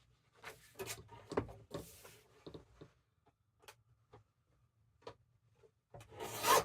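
Paper and craft tools being handled on a tabletop: scattered taps, rustles and short scrapes, with a longer, louder rustling scrape near the end.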